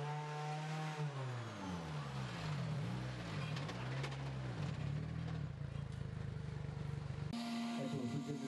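Škoda Fabia R5 rally car's turbocharged four-cylinder engine running and being blipped, the revs rising and falling several times, then settling to a steadier note. Near the end the sound changes abruptly to a steady, higher engine note.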